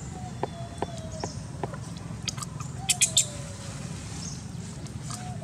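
Forest bird whistling: thin single notes that slide slowly downward, heard three or four times over a steady low background hum. A few sharp single clicks come in the first two seconds, and a short burst of loud, crackling clicks about three seconds in is the loudest sound.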